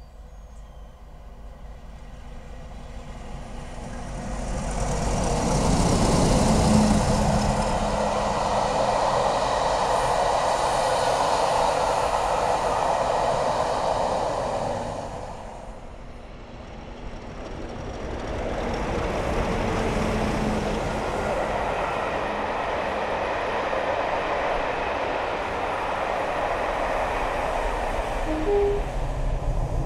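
A diesel-hauled passenger train passing at speed: Class 50 diesel locomotives and their coaches. The rumble swells about five seconds in and holds steady, dips briefly about halfway through, then builds to a steady rumble again.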